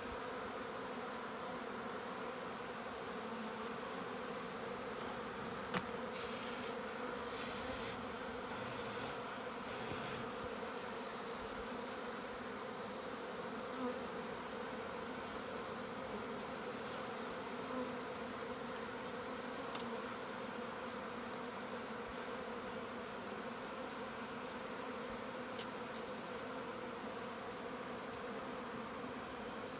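Many honeybees buzzing together in a steady, even drone, as a wild colony is harvested for its honey. A few faint ticks now and then.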